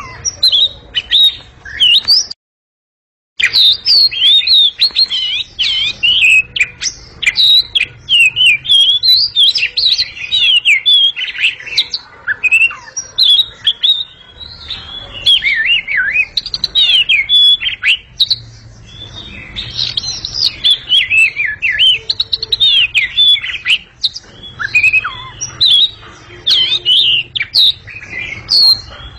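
Caged oriental magpie-robin (kacer) singing loudly: a continuous, rapid run of varied whistles, chirps and sweeping notes. The song breaks off for about a second near the start, then goes on.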